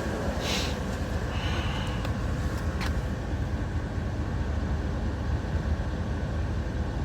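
Chevrolet truck engine idling with the air conditioning running, a steady low running noise. Two short hisses come in the first two seconds, and there is a single click about three seconds in.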